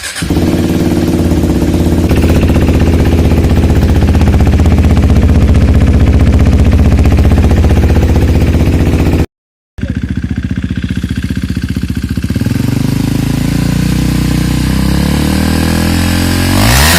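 KTM 390 Duke's single-cylinder engine idling steadily through an Indimotard Greasehouse Grunt 390 aftermarket exhaust. The sound cuts off abruptly about nine seconds in, comes back idling, and near the end the throttle is blipped, the pitch rising and falling.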